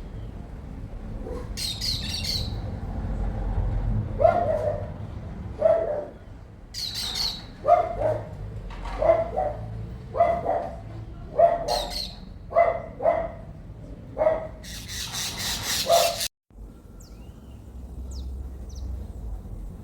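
Birds calling: a run of short, repeated lower calls about one a second, mixed with bursts of high chirping. The sound cuts off suddenly about three-quarters through, then only faint high chirps remain.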